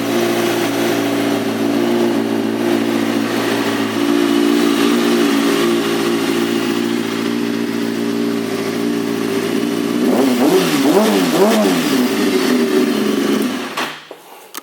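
2003 Kawasaki ZX-6RR's inline-four engine, breathing through a Jardine aftermarket exhaust, idling steadily. About ten seconds in it is revved a few times in quick succession, then the engine stops shortly before the end.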